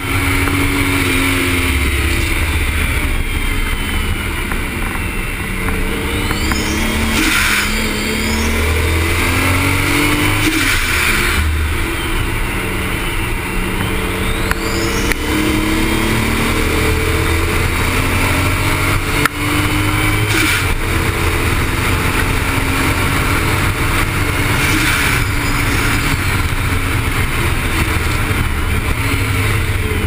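Toyota Supra's engine running hard on track, its pitch climbing and dropping again and again through gear changes, over steady wind and road noise.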